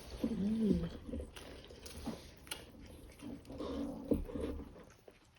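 A person's closed-mouth "mm" sounds while eating: a short one that rises and falls in pitch near the start, and a longer, steadier one a few seconds later, with faint chewing clicks between.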